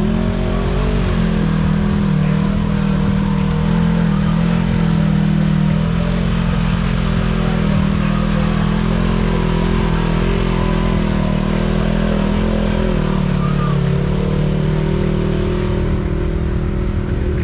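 Side-by-side UTV engine running under way, its pitch climbing right at the start and then holding steady, with a brief dip about 13 seconds in.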